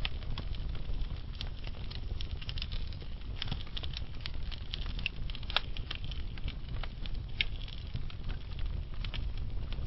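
Wood fire burning in a fireplace, logs crackling with irregular sharp pops over a steady low rumble of the flames.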